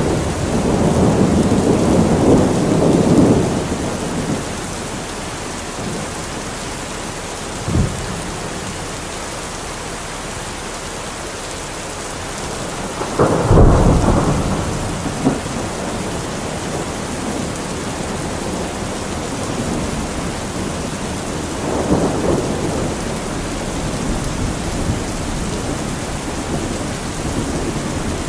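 Heavy rain falling steadily, with thunder rolling over it: a long rumble in the first few seconds, a short sharp one near eight seconds, the loudest clap about halfway through, and a fainter rumble later.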